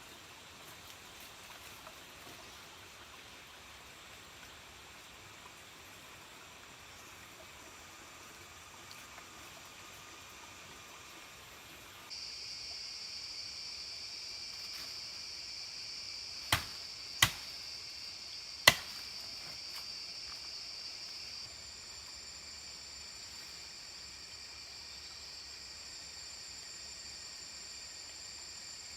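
Faint outdoor ambience, then from about twelve seconds in a steady, high-pitched insect drone. Three sharp knocks a second or so apart fall a few seconds into the drone.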